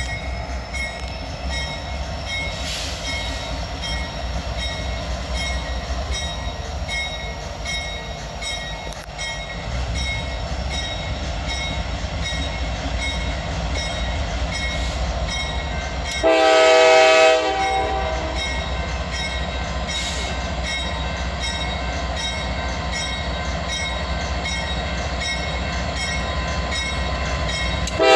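Diesel freight train with a steady low rumble of locomotives and rolling wheels on the rails. A little past halfway, the lead locomotive's Nathan K5LA five-chime horn sounds one blast of about a second and a half. A second blast begins right at the end.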